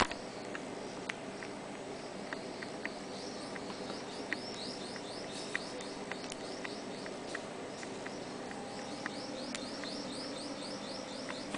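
Bird chirping in quick runs of short, high, rising notes, several a second, over scattered small clicks.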